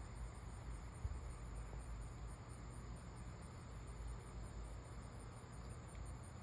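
Faint chorus of insects chirping: a high, even pulse repeating about five times a second over a steady high hum, the kind of night insect noise that she guesses may come from cicadas like this one.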